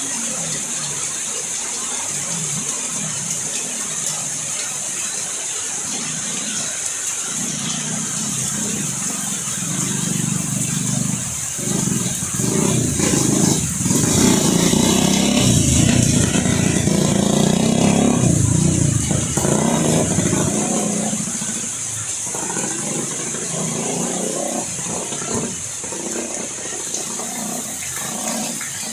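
Steady hiss of heavy rain with a motor vehicle engine passing, growing louder for several seconds around the middle and then fading away.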